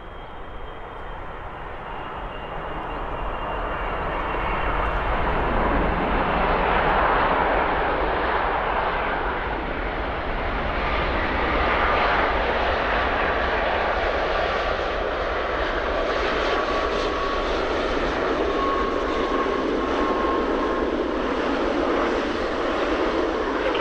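Boeing 777-300ER's twin GE90 jet engines on landing approach: a jet rush that grows louder over the first several seconds, then stays loud and steady with a faint engine whine.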